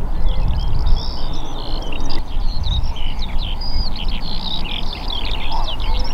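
Several small birds chirping and singing in quick, overlapping phrases over a loud low rumble.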